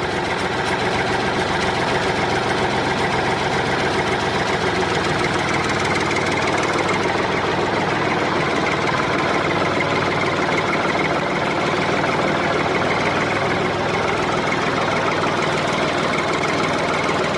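Tractor engine idling steadily, an even, unchanging running note.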